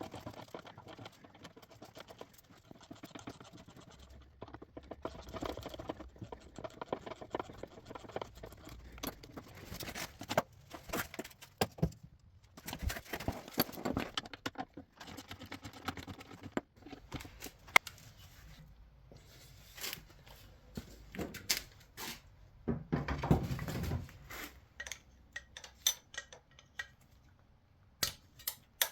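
Metal hand tools working on a motorcycle's exhaust fittings: an irregular run of clinks, knocks and rattles with short stretches of scraping, and one sharp knock about two-thirds of the way in.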